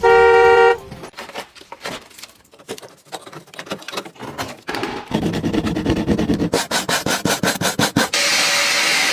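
Car wash: a loud beep, then scrubbing and rubbing strokes that grow busier and louder about halfway through, giving way near the end to the steady hiss of a spray.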